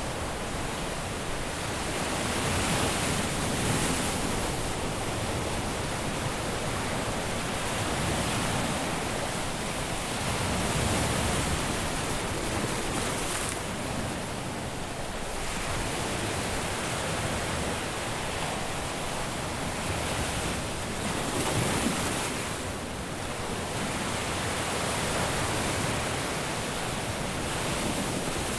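Caribbean surf washing onto a beach: a steady rush of breaking waves that swells and eases every few seconds as each wave comes in.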